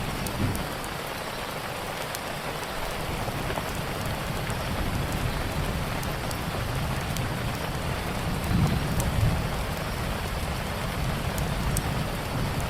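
Steady rain falling, with scattered sharp crackles and pops from a wood fire and a low rumble of thunder that swells about nine seconds in.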